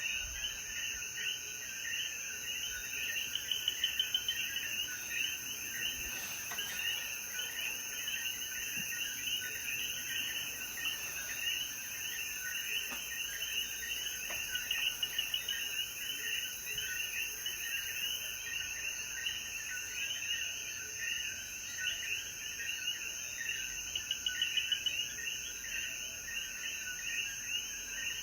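A chorus of many Puerto Rican coquí frogs calling at once, their short rising calls overlapping without a break, over a steady high-pitched hum.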